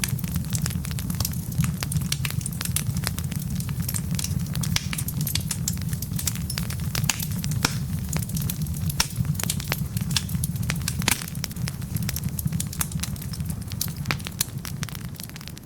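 Wood fire burning in a fireplace: a steady low rumble of flames with frequent sharp crackles and pops from the burning logs, a few louder pops among them.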